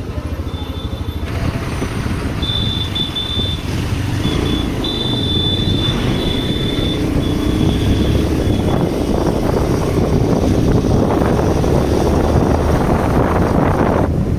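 Motorcycle riding on the road: engine noise mixed with wind rush on the microphone, growing louder as speed builds. A thin, high whine comes and goes during the first half.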